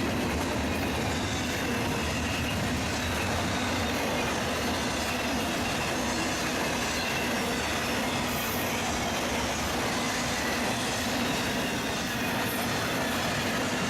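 Freight train cars rolling past on the rails, a steady noise of wheels on track.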